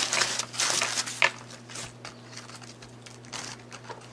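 Crinkling, crackling handling of takeout chicken wings and their packaging as a Parmesan wing is picked up, with scattered clicks and small crunches, loudest in the first second or so.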